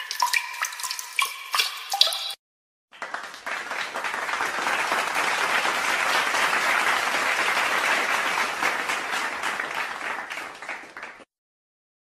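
Water drips plinking at irregular intervals for about two seconds. After a short gap comes a long round of audience applause that fades out near the end.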